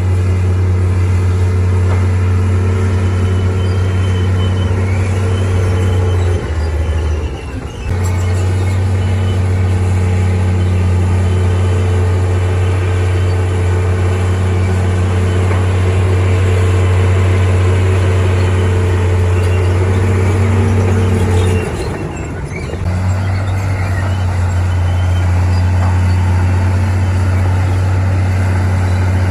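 Heavy diesel engine of a bulldozer running steadily with a deep, even drone. The drone dips away briefly twice, about six seconds in and again past twenty seconds, then comes back.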